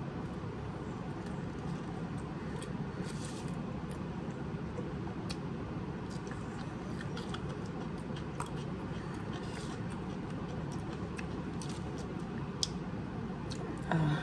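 Close-up chewing of a crispy chicken sandwich: many small wet mouth clicks, with a few short breaths, over a steady low background hum. A brief, louder gasp-like breath near the end.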